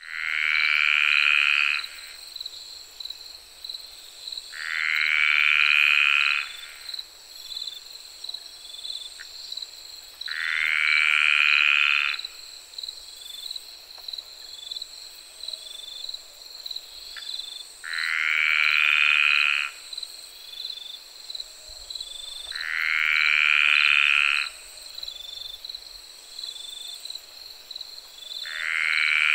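A frog calling: six long trilled calls, each about two seconds long with a slight upward rise, repeating every five to six seconds. Crickets chirp steadily in a high, pulsing background throughout.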